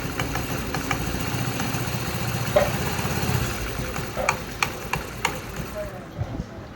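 A small scooter engine, plausibly the Honda Grazia's, running steadily and then dying away a little over halfway through. A few short, light metallic clicks and taps follow.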